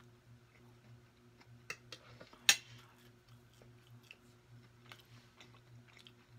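A person chewing a soft mouthful of liver mush: faint, wet mouth clicks scattered throughout, with one sharper smack about two and a half seconds in, over a steady low hum.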